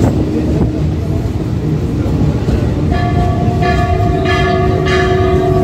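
Kolkata suburban local train running, heard from inside the coach: a steady rumble of wheels on the track. About three seconds in, a train horn starts sounding one long steady note that carries on to the end.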